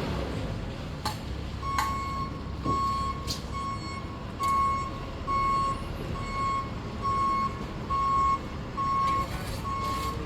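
Vehicle backup alarm beeping steadily, about one and a half beeps a second, starting about two seconds in, over a low engine rumble, with a few sharp knocks.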